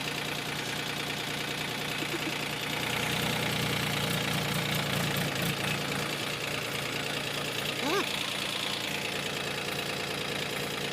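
Powertrac Euro 50 tractor's three-cylinder diesel engine running steadily at low revs. It picks up slightly about three seconds in and settles back a few seconds later.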